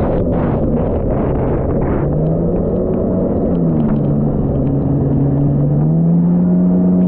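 Personal watercraft engine running on the water, its pitch dropping in steps as the throttle eases off, then climbing again at the very end; a splashy hiss of spray in the first couple of seconds.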